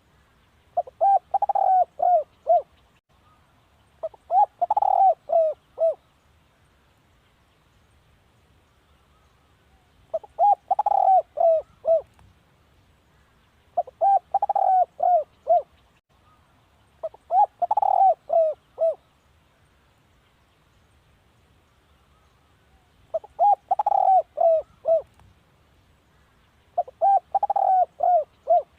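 Spotted dove cooing: seven phrases of several quick coos each, with pauses of a few seconds between phrases and two longer gaps. It is a decoy-bird call of the kind used to lure wild spotted doves.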